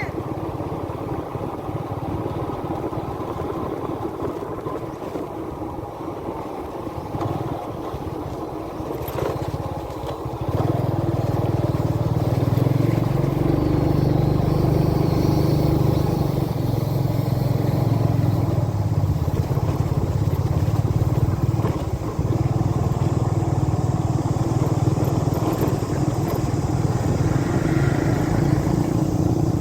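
Motorbike engine running steadily while riding, heard from the bike itself. It gets noticeably louder about ten seconds in and holds there.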